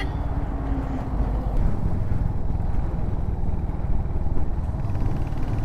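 Royal Enfield Hunter 350's single-cylinder engine and exhaust running steadily under way, a continuous low, rapid thumping note.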